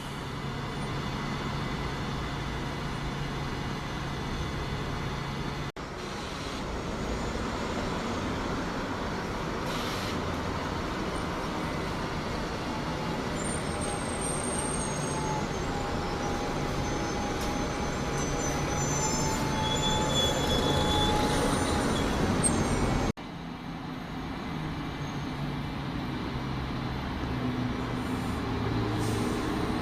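Large public-transport vehicles running, heard in three separately cut shots with abrupt changes about six seconds in and near the end. The middle shot carries a steady whine along with thin high-pitched tones.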